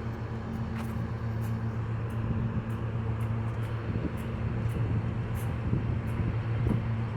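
Nippon Sharyo diesel multiple unit's diesel engine idling steadily at the platform, a constant low hum.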